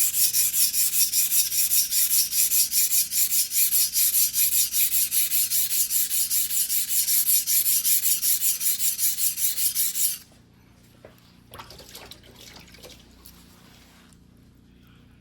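Single-bevel white-steel (shirogami) fuguhiki sashimi knife being hand-sharpened on a whetstone: quick, even back-and-forth scraping strokes, about four a second. The strokes stop abruptly about ten seconds in, followed by a few faint knocks.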